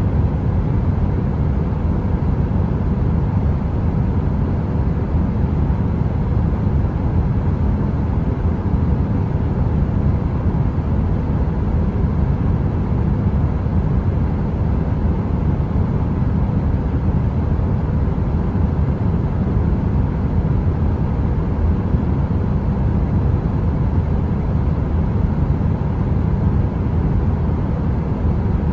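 A heater running steadily: an even, deep rushing noise like brown noise, with a faint steady hum over it.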